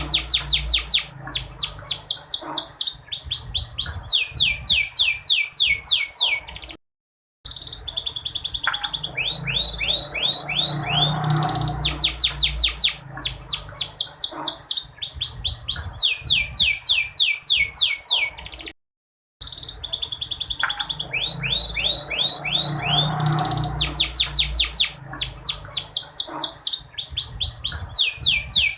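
Domestic canary singing: long, fast trills of high, downward-sweeping notes in repeated phrases, broken twice by a split-second silence.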